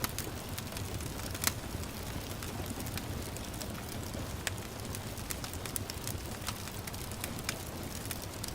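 Wood fire crackling with irregular sharp pops, one louder pop about one and a half seconds in, over a steady hiss of gentle rain.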